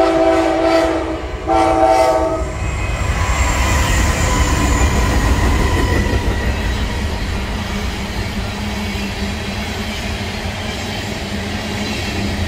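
Freight train's locomotive horn sounds two blasts, each a little over a second long, as it comes up. Then the train runs past with a steady rumble and the clatter of tank-car wheels on the rails.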